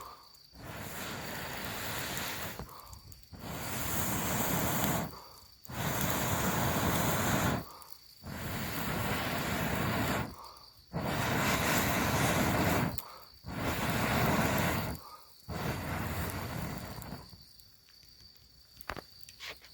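Stretches of steady rushing outdoor noise, each one to two and a half seconds long, that start and stop abruptly several times. A thin steady insect trill runs underneath and is left alone near the end.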